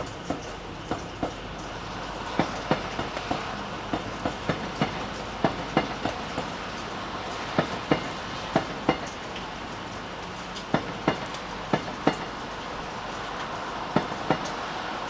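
Steady rain with a run of sharp clacks over it, many coming in close pairs about a third of a second apart; the clacks stop near the end and the rain carries on.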